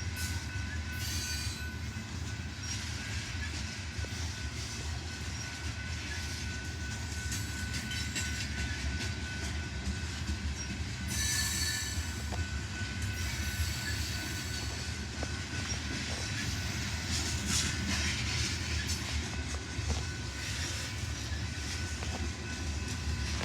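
Freight grain train rolling by, a steady rumble of the cars on the rails, with a high wheel squeal about halfway through.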